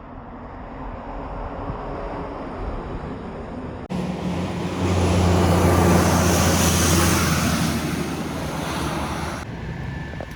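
Road traffic noise, then, after a cut about four seconds in, a heavy truck passing close by: a low engine drone and tyre noise that build, peak and fade away.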